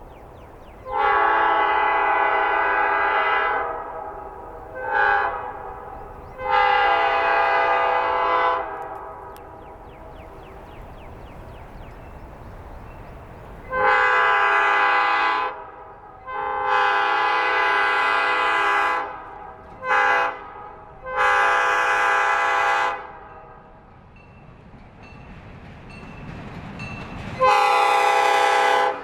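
Diesel locomotive's multi-note air horn blowing for grade crossings: a long, a short and a long blast, then after a pause the long, long, short, long crossing signal, with another long blast starting near the end. A low rumble from the train carries on between blasts.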